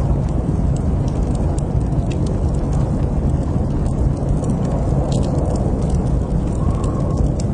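Wood fire burning in a fireplace: a steady low rumble of flames with small crackles and pops scattered throughout.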